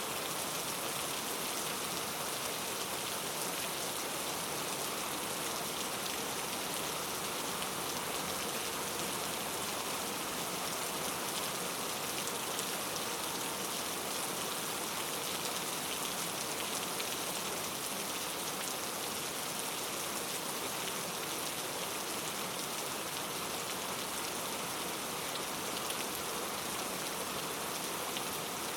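Steady rainfall on forest foliage, an even hiss dense with fine patter of drops.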